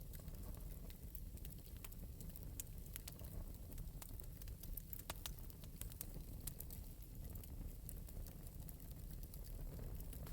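Fire crackling lightly: irregular small pops and ticks, many of them, over a low steady rumble.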